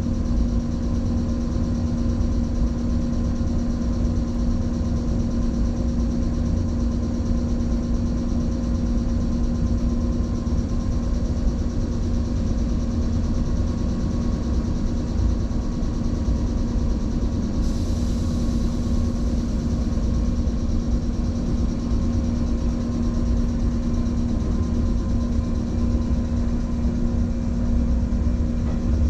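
Steady hum and low rumble of an electric train's onboard equipment while the train stands at a station, with a brief hiss about two-thirds of the way through.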